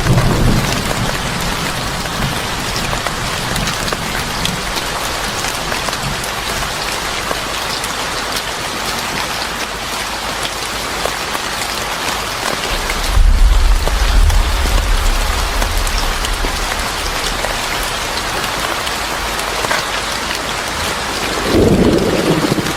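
Steady heavy rain hissing, with a deep rumble of thunder about 13 seconds in that lasts a few seconds and a shorter low rumble near the end.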